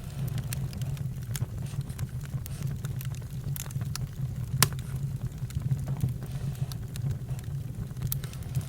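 Campfire crackling: irregular sharp pops over a steady low rumble, with one louder crack about halfway through.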